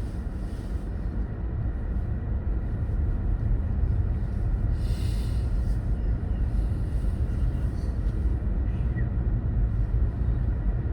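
Car driving: a steady low rumble of road and engine noise, with a brief hiss about five seconds in.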